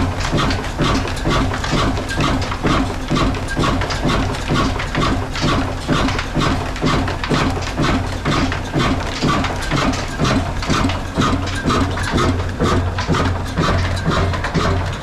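Old black Ruston diesel engine running steadily with an even, slow chugging beat of about two to three beats a second, over a constant low hum from the engine and the flour mill it drives.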